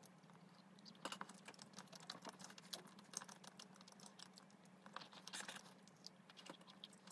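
Faint close-up eating sounds: a scatter of small mouth clicks and smacks from chewing yakgwa (Korean honey cookie) with whipped cream, over a faint steady low hum.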